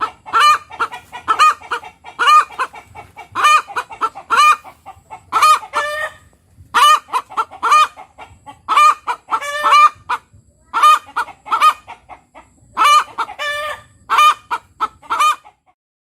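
Chicken clucking: a long run of short, pitched calls in bursts of two to four, which stops about a second before the end.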